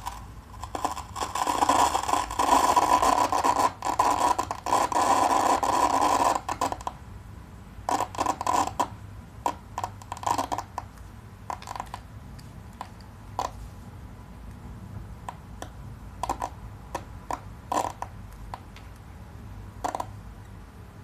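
Static crackling from an HP computer: a loud crackling hiss lasting about six seconds, then short, irregular crackles every second or two.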